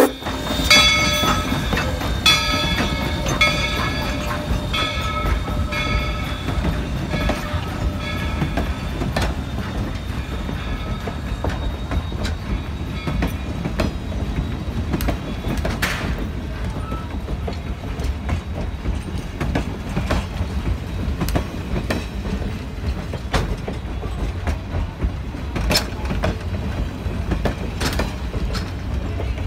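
Steam train's passenger cars rolling past with a steady low rumble and scattered wheel clicks over the rail joints as it departs. During the first eight seconds or so a ringing tone repeats about once a second, typical of the locomotive's bell rung on departure.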